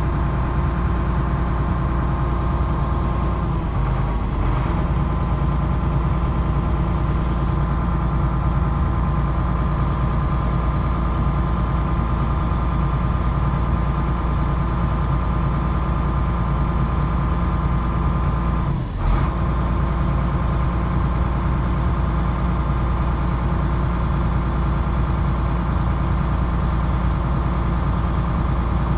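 Excavator's diesel engine running steadily, with a short click and a brief dip about two-thirds of the way through.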